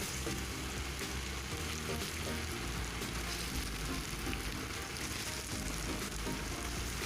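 Pieces of marinated, flour-coated chicken frying in hot oil, a steady sizzle with fine crackling.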